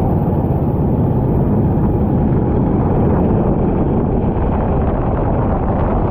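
Racing kart engine running steadily, heavily mixed with wind noise on the microphone.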